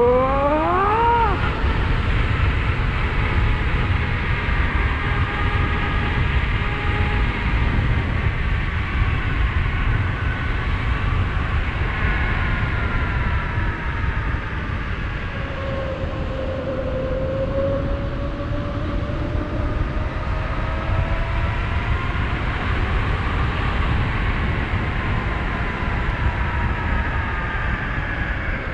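Electric motor of a 72-volt, 5000-watt e-bike kit whining. Its pitch climbs steeply in the first second as it accelerates, then rises and falls with speed. A steady rumble of wind on the microphone runs under it.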